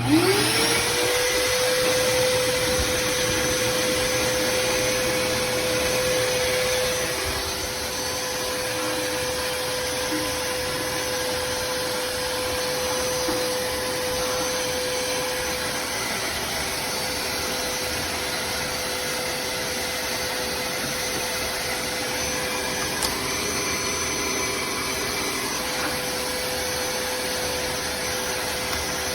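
Vacmaster 6-gallon wet/dry shop vacuum motor switched on, its whine climbing to a steady pitch within about a second. It then runs steadily with a rush of air.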